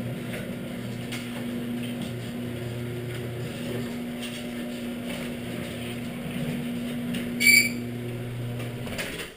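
Old Harley-Davidson V-twin engine running steadily at idle. A short, loud, high-pitched beep sounds about two-thirds of the way through, and the sound cuts off abruptly near the end.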